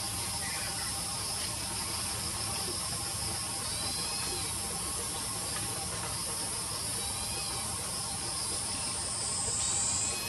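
Steady, high-pitched chorus of insects buzzing, with a few faint short chirps over it.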